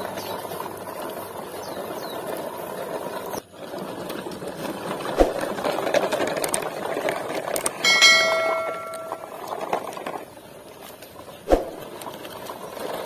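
Steady background hiss with two soft thumps, and a bright bell-like chime of several ringing tones about two-thirds of the way through, the ding of a subscribe-button overlay animation.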